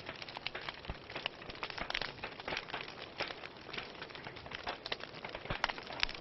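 Wood fire burning in a fireplace, crackling: a steady hiss dotted with many small, irregular pops and snaps.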